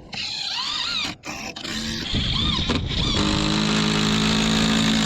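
Brushless Ryobi cordless impact driver whining in short rising-and-falling pulses, then running steadily for about two seconds before stopping, as it drives screws.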